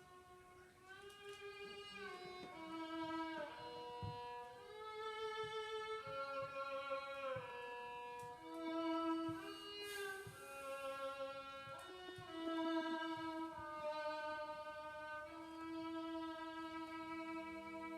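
Instrumental introduction to a slow gospel song: a fiddle plays a melody of long held notes that slide from one pitch to the next, over a soft guitar accompaniment.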